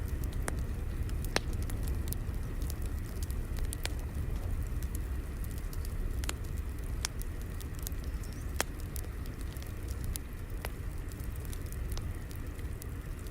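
Fire crackling: a steady low rumble of flames with sharp pops and crackles at irregular moments, several bigger snaps standing out from many small ticks.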